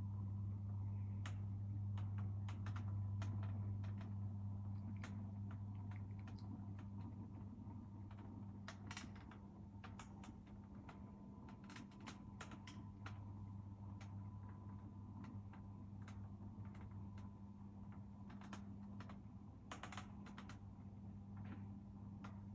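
A steady low electrical hum with a faint higher tone, overlaid by scattered light clicks and taps at irregular intervals.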